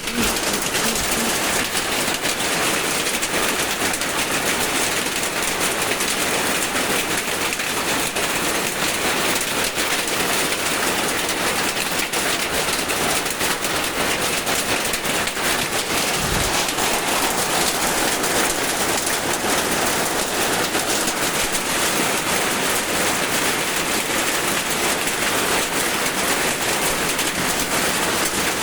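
Heavy rain falling steadily, a dense unbroken patter. A single brief low thud comes a little past halfway.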